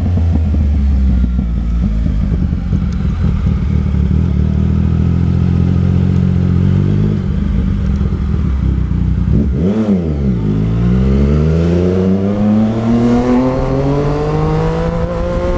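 Yamaha MT-09 Tracer's inline-three engine on the move: it holds steady revs for several seconds, the revs drop sharply about ten seconds in, then climb steadily under acceleration to the end.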